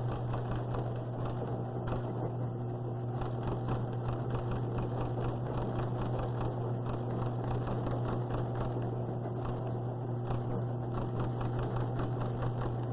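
Teletype machines running, a rapid steady clatter of printing clicks over a constant low hum, as the new hurricane teletype circuit is tested.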